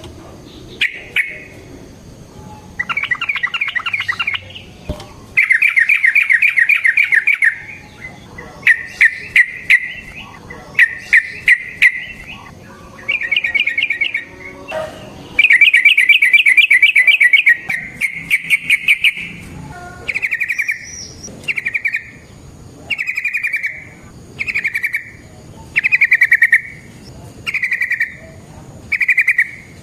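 Yellow-vented bulbul (trucukan) singing in long, rapid rolled trills, with sharp clipped notes around the middle. Later it switches to short phrases repeated about every second and a half.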